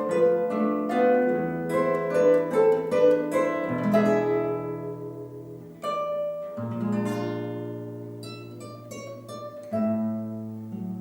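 Two young musicians playing a slow, gentle instrumental piece on plucked strings. The notes are struck and left to ring and fade over low bass notes, with a busy phrase at first that thins to sparser notes from about four seconds in.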